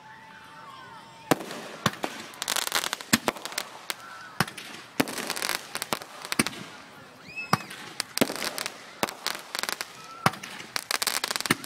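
Aerial fireworks bursting: a string of sharp bangs, with dense runs of rapid crackling in several clusters.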